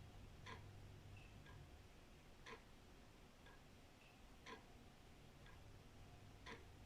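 Old wall clock ticking, faint and steady, about once a second, the strokes alternating louder and softer as a tick-tock. A low rumble under it stops about two seconds in.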